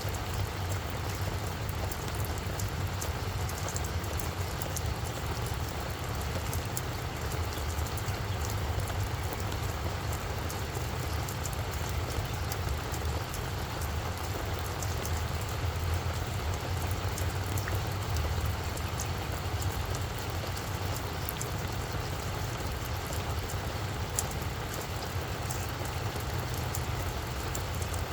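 Steady rain falling on a flower bed, with many small drop ticks over an even patter and a steady low rumble underneath.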